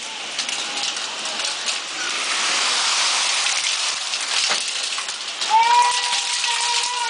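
Heavy rain and hail pelting down in a dense hiss, with scattered sharp hits. About five and a half seconds in, a drawn-out pitched tone rises over it and holds.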